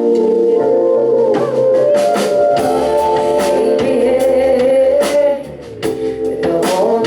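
A live band playing the instrumental opening of a song: sustained chords over drum hits. There is a short drop in level about five and a half seconds in.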